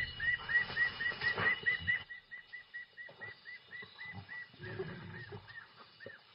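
A bird calling in a long series of short, arched chirps, about four a second at first and slowing toward the end. Under the first two seconds there is a low noise that then stops.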